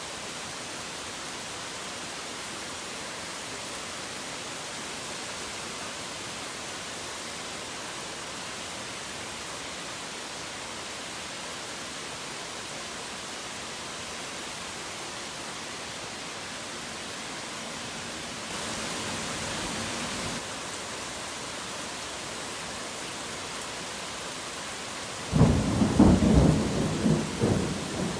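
Steady rain hiss, swelling briefly about two-thirds of the way through. Near the end a sudden loud thunderclap breaks in and rumbles on.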